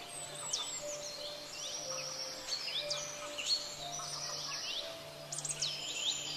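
Birdsong: many quick downward-sweeping whistles and buzzy trills, over soft held low notes of background music.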